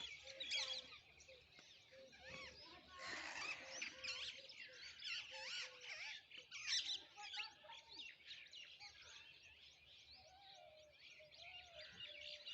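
A flock of parrots calling: many high-pitched chirps and squawks overlapping continuously, loudest in bursts, with a fainter repeated lower note underneath.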